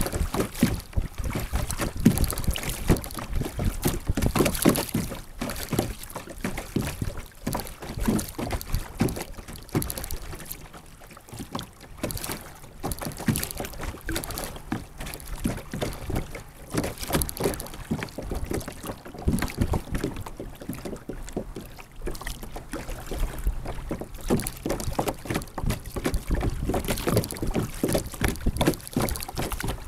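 Water splashing and lapping against a sit-on-top kayak's plastic hull, picked up by an action camera mounted on the boat, with wind noise on the microphone. The splashing eases off for a couple of seconds twice, about a third of the way in and again past two thirds.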